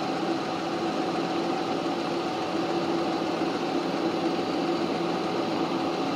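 Steady engine hum holding an even pitch, without rising or falling.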